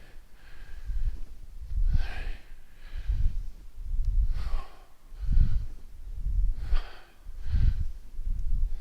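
A man breathing hard in a steady rhythm while doing air squats, about one loud breath every second or so, each breath rumbling on the microphone.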